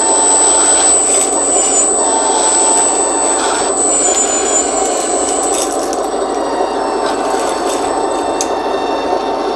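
Electric hydraulic pump and motors of an RC scale skid steer loader running with a steady whirring hum, a thin high electric whine wavering above it.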